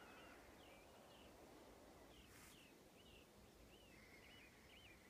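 Near silence with faint birdsong: a small bird repeating short chirping calls, about two a second.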